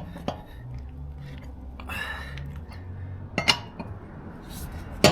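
Metal clanks of a wheel wrench on the wheel nuts as they are tightened by hand, two sharp clanks, one past halfway and one at the end, over a low rumble.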